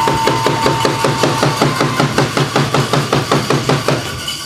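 Hockey sticks banged rapidly and evenly on the ice in a team cheer, about six knocks a second, stopping about four seconds in. A steady high tone sounds alongside for the first second and a half.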